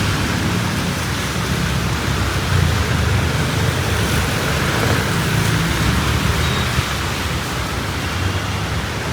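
Heavy rain falling steadily, with a low rumble of street traffic underneath.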